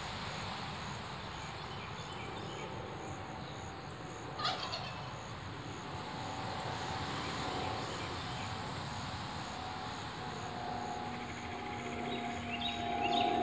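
A bird calling outdoors: one short loud call about four seconds in, then a quick run of notes near the end, which the tagger hears as a turkey gobbling. Under it are a faint high pulsing buzz and a faint steady hum.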